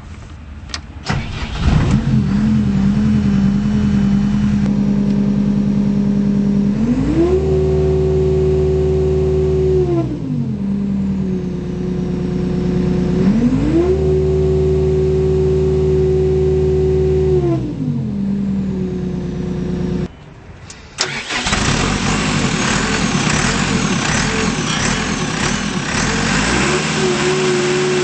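2011 Volvo MCT125 compact track loader's diesel engine starting and settling to an idle. It is revved up twice, held at high revs for a few seconds each time, and falls back to idle. After a short drop about two-thirds of the way through, a louder, noisier running begins with high-pitched squeals, and the revs rise again near the end.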